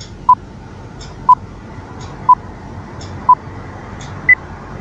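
Quiz countdown-timer sound effect: a short beep once a second, four times, then a higher-pitched final beep that marks the time running out. Faint ticks sound between the beeps.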